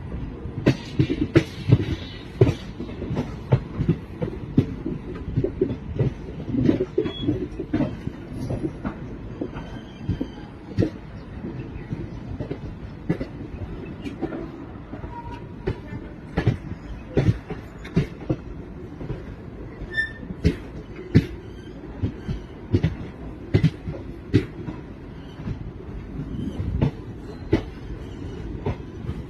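Indian Railways passenger train running into a station: a steady low rumble with irregular sharp clanks and clicks from the wheels on the track.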